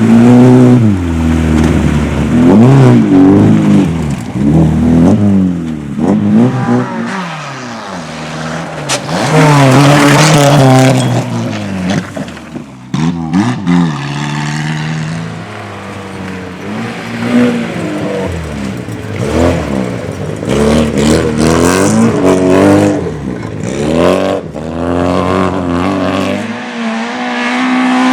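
Rally cars driven hard. The engines rev up and drop back again and again through gear changes and lifts, at high revs.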